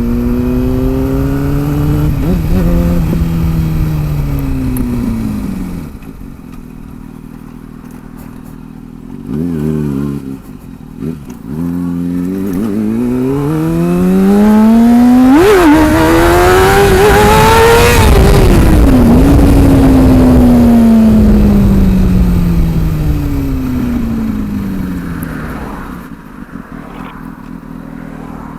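Kawasaki ZX-6R inline-four engine through an aftermarket TOCE undertail exhaust, heard while riding: it slows down and drops to idle, blips once, then accelerates hard with a quick gear change partway up before rolling off and winding down to idle again. Wind rushes over the microphone at the fastest part.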